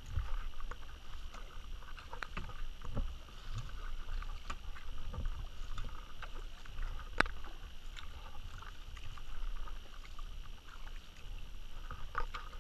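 Kayak paddling: the paddle blades dipping and splashing, with irregular small knocks and water noise against the hull. A single sharp click a little past the middle is the loudest sound.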